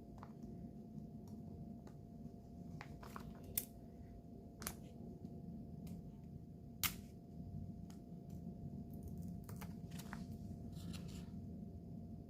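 Scattered small, sharp clicks and taps of nail-art tools and product bottles being handled, three of them louder, over a steady low hum of room noise.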